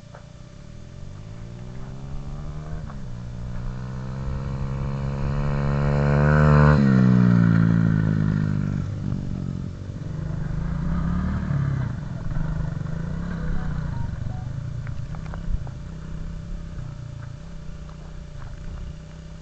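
An off-road vehicle's engine rising in pitch and loudness as it approaches, loudest about seven seconds in. Its pitch then drops sharply as it passes, and it settles into a quieter engine sound that rises and falls, with a few short clicks.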